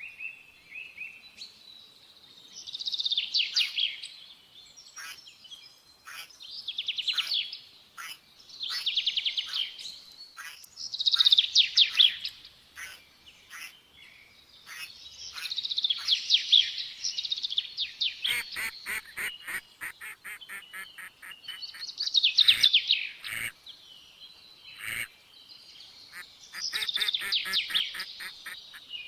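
Small songbirds singing, with loud trilled song phrases of about a second each repeating every few seconds. From about two-thirds of the way in, rapid sharp clicks come in between the phrases.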